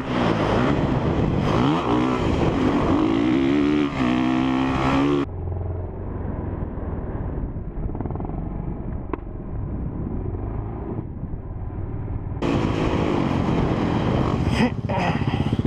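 Honda CRF450R's single-cylinder four-stroke engine running and revving up and down under a rider. About five seconds in, it drops abruptly to a duller, quieter sound, and it comes back loud again near the end.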